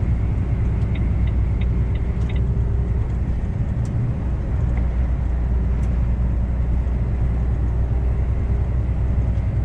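Steady low drone of a semi-truck's diesel engine and tyre noise heard from inside the cab while driving at highway speed, with a few faint ticks in the first couple of seconds.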